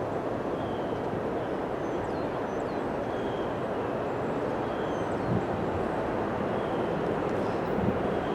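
A train rolling past: a steady, even rumble of wheels on rail that holds at one level throughout.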